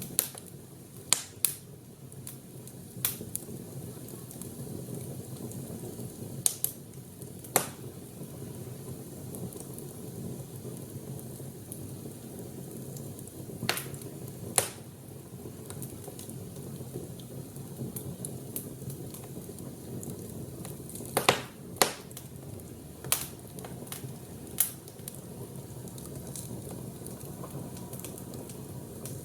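Wood fire burning, with sharp pops and crackles at irregular intervals over a steady low rush.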